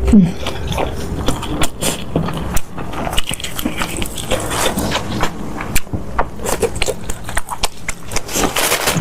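Close-miked eating sounds: chewing with wet, sticky clicks and smacks, coming irregularly several times a second.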